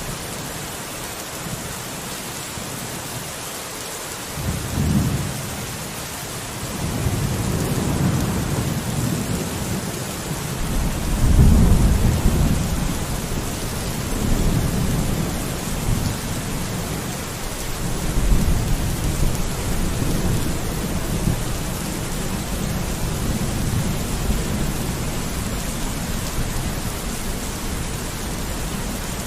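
Steady rain with thunder rumbling in low, rolling swells that come and go several times, the loudest about eleven seconds in.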